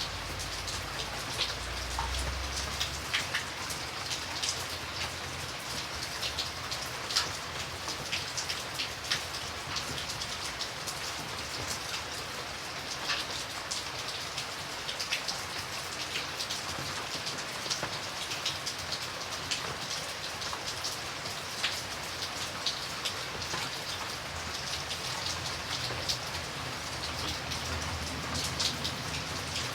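Steady rain falling, with many individual drops ticking against a surface over a continuous hiss of rainfall. A faint low rumble sits under it about two seconds in and again near the end.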